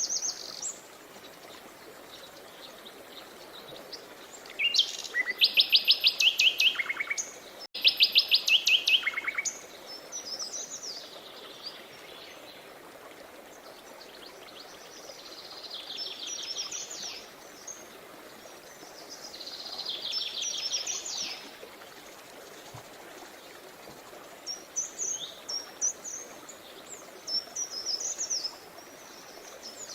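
Songbirds singing over a steady hiss of flowing river water: several rapid trills of quickly repeated notes, the loudest about five to nine seconds in and others around sixteen and twenty seconds, with short chirps near the end.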